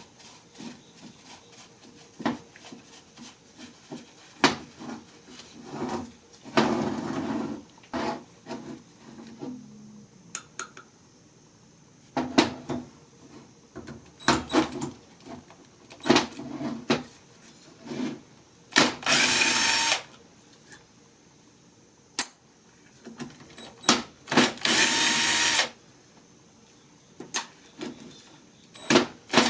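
A power drill runs in short bursts of about a second, twice in the second half and once more at the very end. Between the bursts come scattered clicks and knocks of metal parts and tools being handled.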